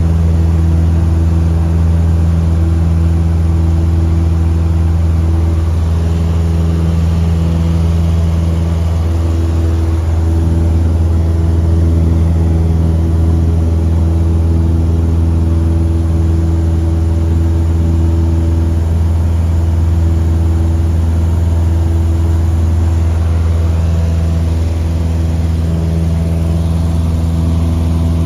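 1964 Cessna 150D's four-cylinder Continental O-200 engine and propeller droning steadily in flight.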